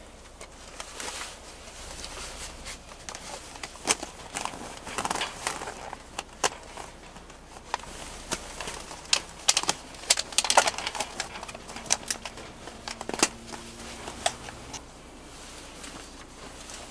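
Irregular clicks and knocks with some rustling, as of objects being handled, most frequent about four seconds in and again around the ten-second mark.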